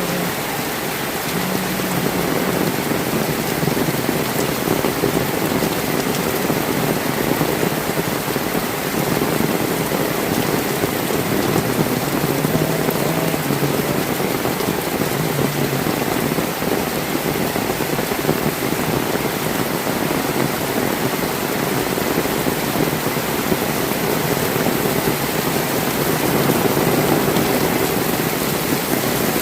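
Heavy rain falling steadily, a constant even hiss of drops on surfaces.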